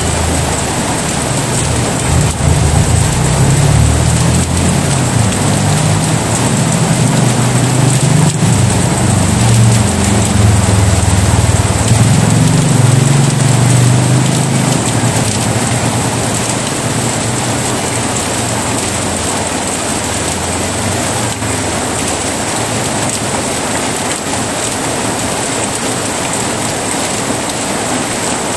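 Heavy rain falling steadily, with a long low rumble of rolling thunder that builds about two seconds in and fades away by around halfway through.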